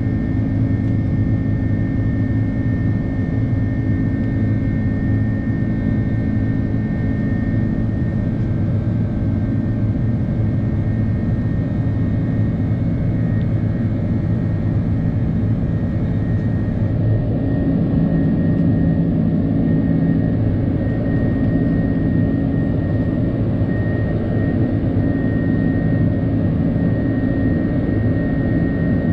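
Airbus A330-300 jet engines heard from inside the cabin: a loud, steady drone with a high whine over it. About halfway through, the hiss at the top falls away and a single high whine steadies.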